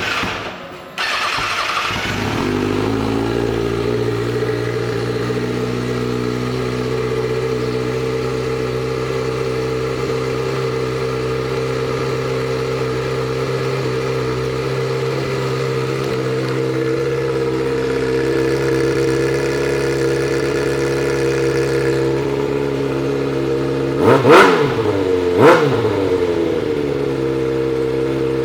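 2011 Kawasaki ZX-6R's 600 cc inline-four, breathing through a Vance & Hines Shorty twin exhaust, cranked on the starter and catching about a second in. It then idles steadily, gets two quick throttle blips near the end, and is shut off.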